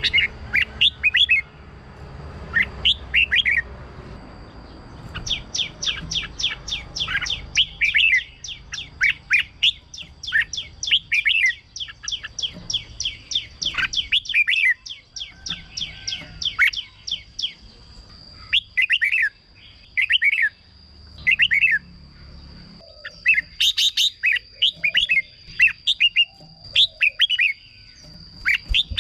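Red-whiskered bulbul singing: quick phrases of short, bright chirping notes, repeated with brief pauses between them.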